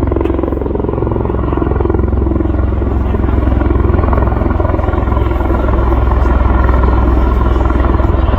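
Piston-engined propeller aerobatic aircraft droning through a display pass, a steady engine and propeller noise that grows a little louder in the second half.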